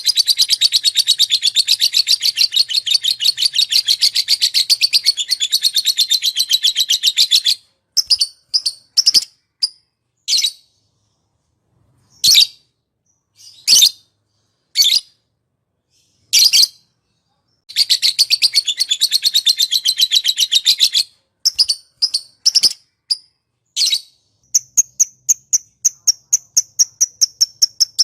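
Small songbird singing. Long runs of fast, rapidly repeated high chirps, several a second, break off about seven seconds in into scattered single sharp calls with silent gaps. Another fast run starts just before the middle of the second half, more single calls follow, and a steady fast chirping series resumes near the end.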